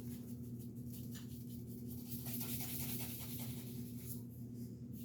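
Creole seasoning being sprinkled from its container onto a raw turkey: quick scratchy rattling strokes, busiest around the middle, over a steady low hum.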